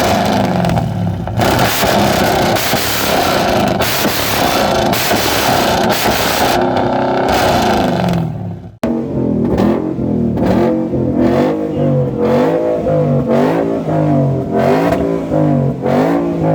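Car engine with a loud exhaust revved hard and held high. After a sudden break about nine seconds in, it is blipped over and over, the pitch rising and falling about one and a half times a second.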